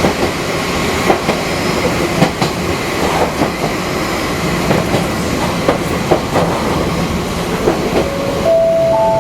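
Fukui Railway type 200 train running along the track: steady running noise with irregular clicks and clacks from the wheels over the rails. Near the end a chime of three rising notes begins, each note held.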